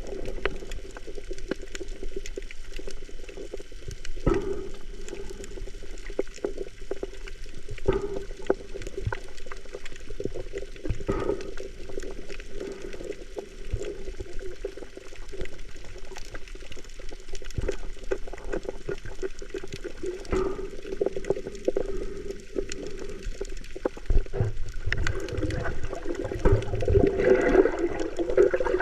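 Water sloshing and splashing close to the microphone, with irregular splashes throughout and a louder, more turbulent stretch in the last few seconds.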